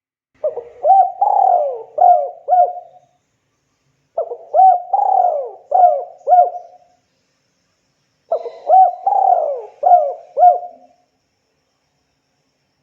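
Spotted dove (tekukur) cooing: three phrases about four seconds apart, each a quick run of about five coo notes.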